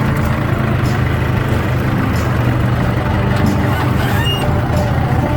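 Diesel pickup truck engine running steadily.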